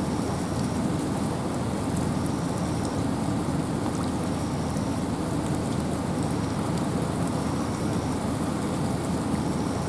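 Steady rain and wind in a forest: an even, low rushing with scattered light drip ticks.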